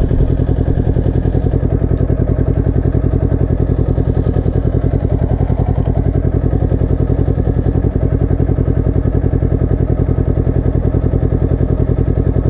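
Motorcycle engine idling steadily with an even pulsing beat, the bike stationary.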